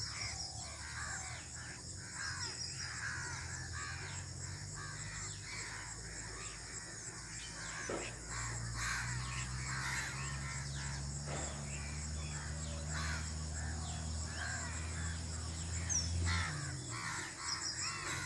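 A flock of birds calling over and over in short, repeated calls, over a steady low hum that grows louder about eight seconds in and stops near the end.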